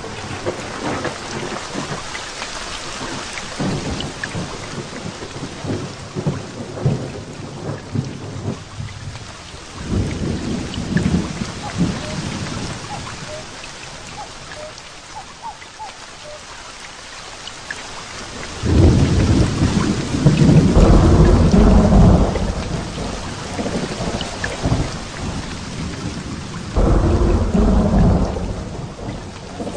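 Heavy rain falling steadily, with rolling thunder. A faint rumble comes about ten seconds in, the loudest peal swells up about nineteen seconds in and rolls for several seconds, and a shorter peal follows near the end.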